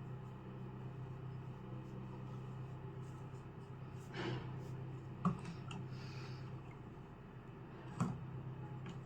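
Steady low hum of room noise with a brief faint rustle, and two light sharp knocks, one a little past halfway and one near the end.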